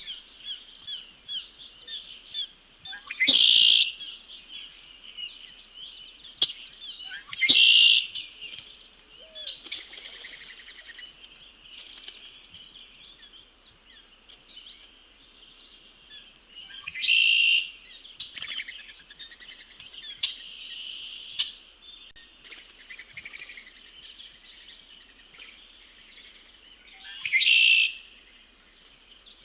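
Wild birds calling and singing around a feeder, with a steady chorus of high chirps and four loud, short songs or calls from a bird close by, spread through the stretch.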